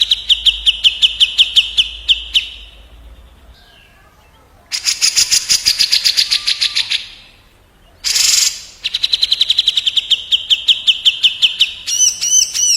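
Cucak jenggot (grey-cheeked bulbul) and kapas tembak bulbul singing against each other in fast, harsh rattling trills of rapidly repeated notes, about ten a second. The song comes in three phrases with short pauses between them, and a different looping whistle starts near the end.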